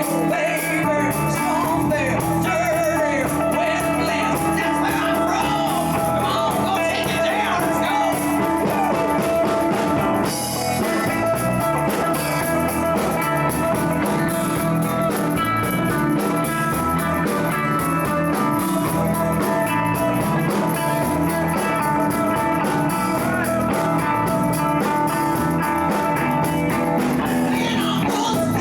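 Live band playing a bluesy rock jam, with electric guitar, bass and drums, and some singing.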